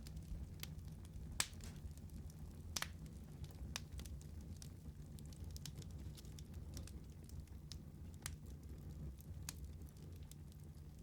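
Wood fire crackling in a fireplace: irregular sharp pops and snaps, a few louder ones in the first three seconds, over a low steady rumble of the burning.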